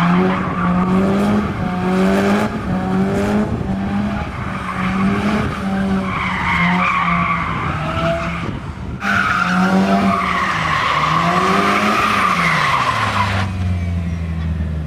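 A car drifting: the engine is held at high revs, rising and falling, while the tyres squeal continuously. Near the end the revs drop.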